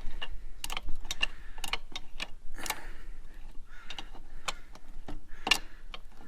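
Irregular metallic clicks and taps, two or three a second, some with a short ring, as the Harley's fork is fitted back in and a nut and washer are snugged up.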